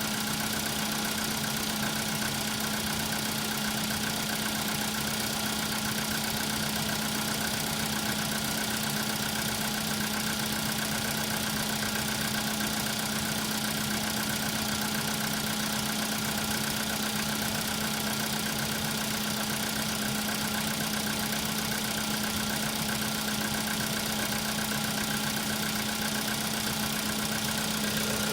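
Car engine idling cold, with a fast, even knocking in time with the engine that is the cold-start knock the owner is showing.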